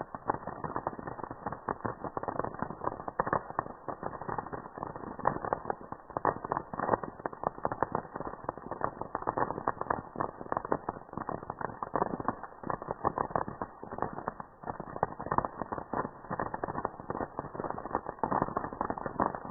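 Campfire crackling: a dense, irregular stream of small pops and snaps.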